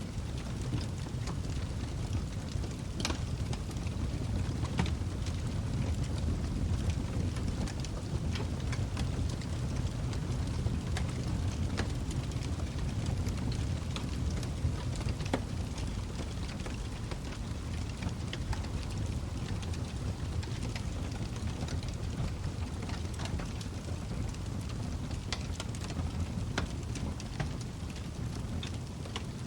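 Log fire burning in a fireplace: a steady low rush of the flames with irregular crackles and sharp pops scattered throughout.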